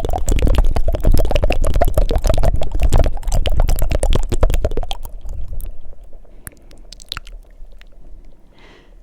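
Fast, wet tongue fluttering into close microphones, a rapid rattle of mouth clicks, stopping about five seconds in. After that, a few scattered mouth clicks and a soft breath near the end.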